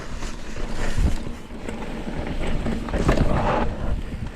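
Wind buffeting the microphone of a bicycle rider on a trail, with heavy low rumbling surges about a second in and around three seconds, and a few light knocks from the bike over the ground.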